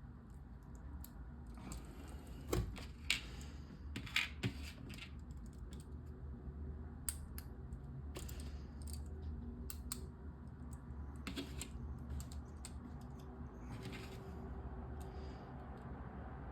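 Small plastic LEGO pieces clicking and rattling as they are handled, in scattered clicks with a few louder ones in the first few seconds, over a steady low hum.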